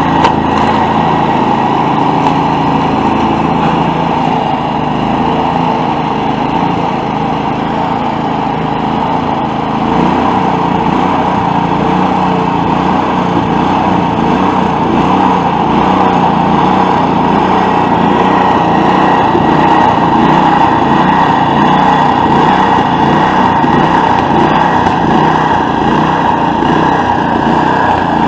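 Small gasoline engine of outdoor power equipment running steadily at constant speed. It grows slightly louder about a third of the way in.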